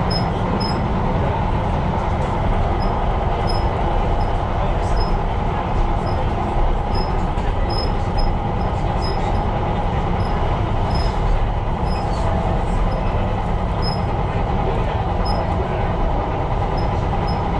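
Tyne & Wear Metro train running along the line, heard from on board: a steady rumble and hum of wheels and motors, with short high squeaks now and then.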